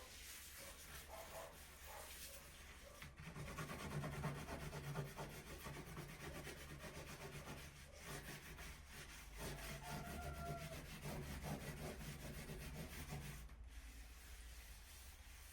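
A cloth wiping down a table, with continuous rubbing across the surface.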